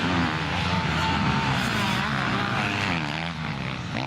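Several motocross bike engines running at once, their pitch rising and falling as the riders rev on and off the throttle.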